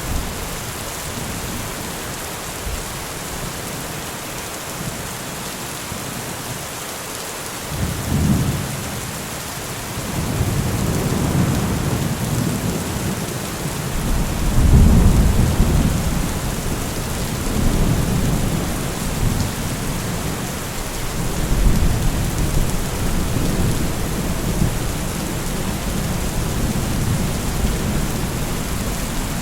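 Steady rain falling, with thunder rumbling low beneath it from about eight seconds in, swelling and fading several times and loudest around the middle.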